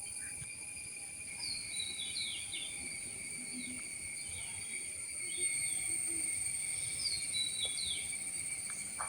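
Insects keep up a steady high-pitched drone while a bird repeats short, falling call notes, in runs about two seconds in and again about seven seconds in.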